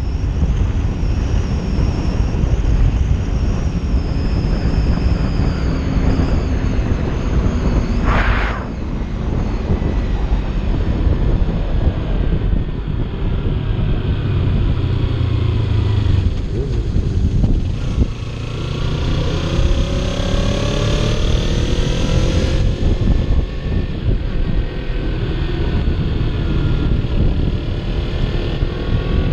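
Kawasaki Ninja 300 motorcycle ridden at speed, with heavy wind rumble on the rider's microphone. The engine note climbs repeatedly as it accelerates through the gears in the second half, and a short whoosh comes about eight seconds in.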